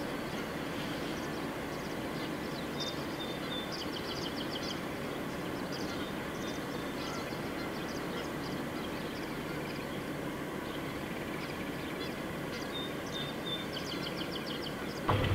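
Birds chirping in short, rapid high trills several times over a steady low background rumble.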